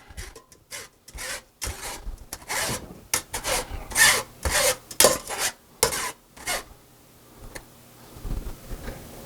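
A hand tool scraping mashed potatoes through a sifter: a series of short scraping strokes, about two a second, that thin out and soften after about six seconds.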